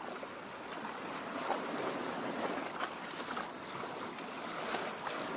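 Small lake waves lapping at the shore: a steady wash of water with faint little splashes scattered through it.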